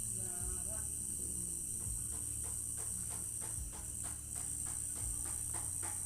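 Crickets chirring in a steady, high-pitched trill. Through the second half a regular run of clicking pulses comes about three a second. Near the start there is a brief, faint snatch of distant singing or music.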